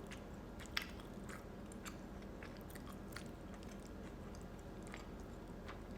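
A person chewing a mouthful of food close to the microphone, with scattered soft wet mouth clicks; one click a little louder just under a second in.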